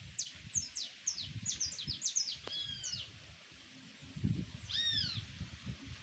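Songbirds singing: a quick run of short, high chirps over the first three seconds, then a few arched whistled notes about five seconds in. Irregular low thumps and rumble run underneath, loudest around four to five seconds in.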